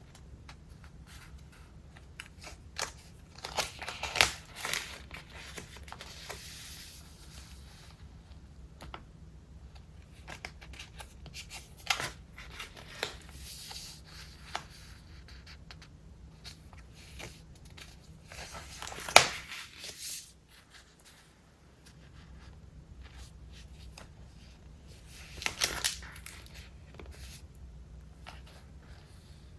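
Pages of a thick, collage-filled traveler's notebook being turned and handled: crinkly paper rustling in clusters every several seconds, with one sharp page snap about two-thirds of the way through.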